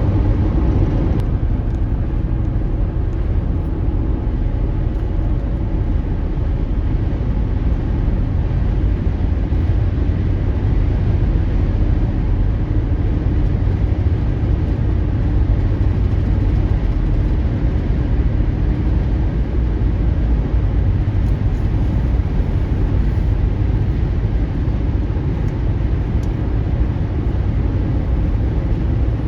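Steady, loud low rumble of a car driving on a dusty gravel road, heard from inside the cabin: tyre and road noise with the engine underneath.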